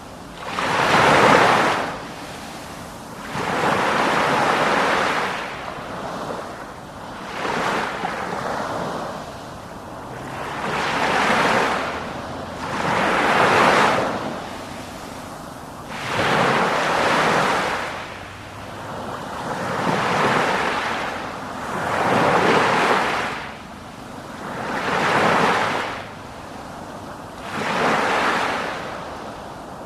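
Sea waves breaking and washing in, one surge every two to three seconds, each swelling up and falling away.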